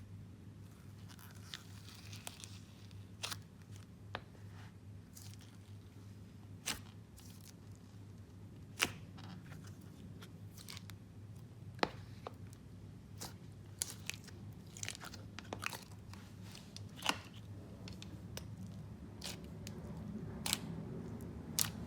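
Thick clay slime topped with foam beads, being pressed and squished by hand, with scattered sharp clicks and pops from the beads over a low steady hum.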